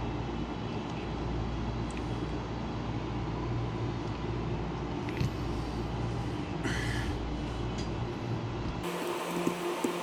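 A steady mechanical drone with a low rumble that changes abruptly near the end to a thinner steady hum with a few light clicks.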